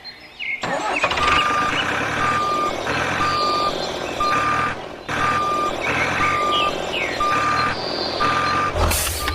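Vehicle reversing alarm beeping steadily, about one beep a second, over continuous background noise, with a short loud burst of noise near the end.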